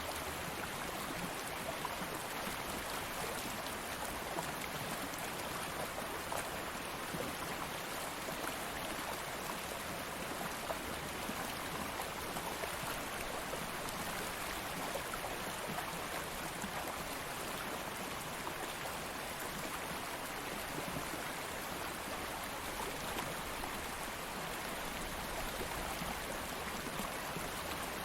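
Stream water flowing steadily over stones, a continuous rushing burble with small splashes throughout.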